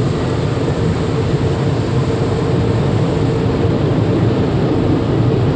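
Steady, loud rushing rumble of an automatic car wash heard from inside the car's cabin as the wash finishes.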